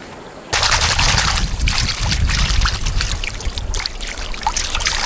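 Forest stream water rushing and splashing close by, a steady, loud rush with a low rumble, starting abruptly about half a second in after a quiet moment.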